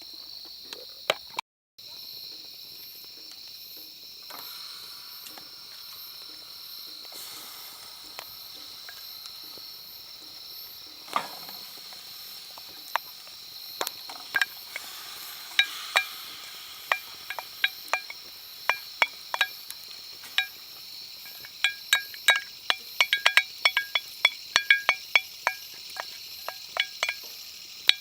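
Steady chirping of insects, with a run of quick, sharp metallic clinks from about halfway through that come faster near the end.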